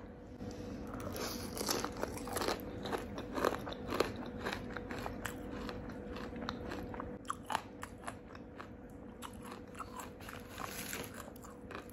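Close-miked crunchy bites and chewing of crispy fried chicken coated in gulai sauce. The crunches come thick and fast for the first several seconds, then thin out into slower chewing.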